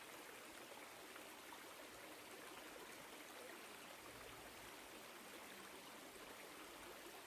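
Small woodland stream flowing, a faint, steady rush and trickle of water.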